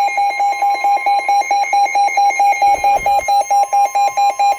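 Weather alert radio sounding its alarm for a severe thunderstorm warning: a loud, rapid beeping, about five beeps a second, over a steady higher tone, the NOAA Weather Radio warning alarm tone.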